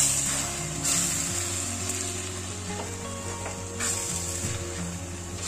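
Onions, tomatoes and ground spices sizzling in hot oil in a pot while a spatula stirs them through, with louder stirring scrapes at the start, about a second in and near the four-second mark.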